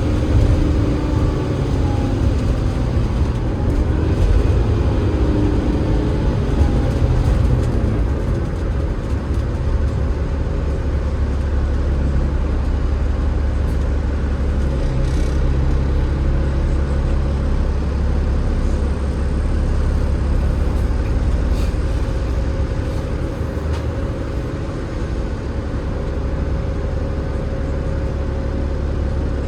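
Enviro500 MMC double-decker bus running on the road, heard on board: the low rumble of its Cummins ISL8.9 diesel engine, ZF EcoLife automatic gearbox and tyres, with a few brief shifts in pitch in the first few seconds.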